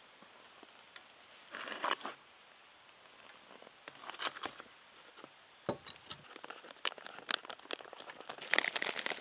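Crinkling and rustling of a foil freeze-dried meal pouch being handled, with a denser burst about two seconds in and scattered crackles that grow busier near the end.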